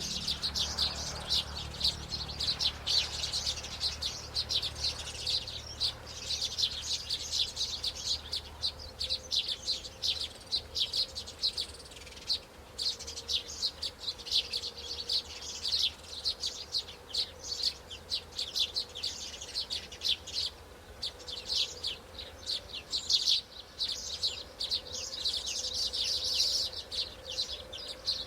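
Birds chirping, a continuous run of quick, high-pitched chirps, several a second.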